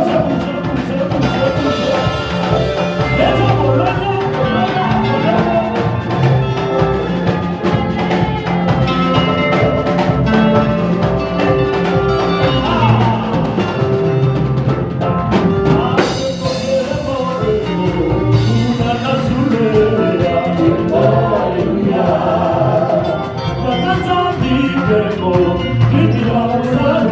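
Upbeat gospel praise music from a live church worship band: a drum kit keeps a steady dance beat under singing voices and instruments.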